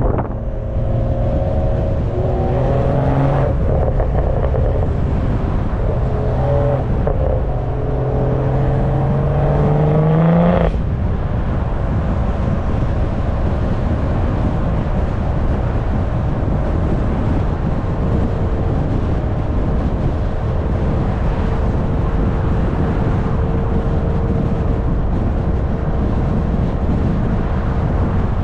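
BMW M340i's turbocharged B58 straight-six heard at the exhaust while driving, its note climbing steadily under acceleration for about ten seconds, then cutting off sharply as the throttle closes. After that comes a steady cruise with heavy wind buffeting on the microphone.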